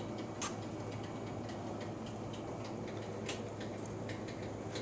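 Faint, irregular light clicks, about two a second, over a steady low hum, with one slightly louder click about half a second in.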